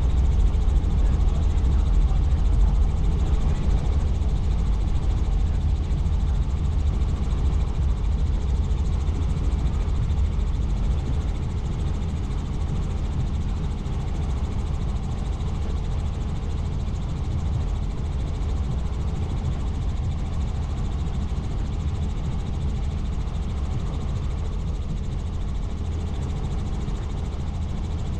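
Helicopter in flight: steady engine and rotor noise, heaviest in the low end, easing a little in loudness over the first half.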